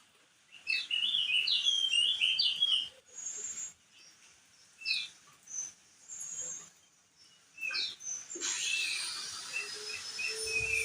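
Crested white-eye (opior jambul) singing: quick, jerky chirping phrases broken by short pauses and single notes. Near the end a steady high tone comes in under the chirps.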